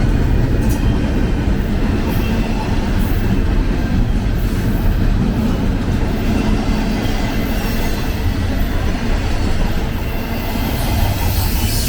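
BNSF freight train of intermodal container cars rolling past close by: a steady, loud rumble of steel wheels on rail, with faint thin squealing tones above it.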